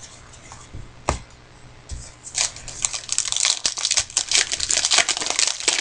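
Trading cards and foil pack wrappers being handled: a single sharp tap about a second in, then from about two seconds a dense run of crisp crinkling and clicking.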